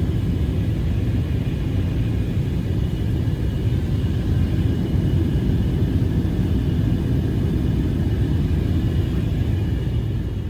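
Steady low rumble, with a faint high hum above it.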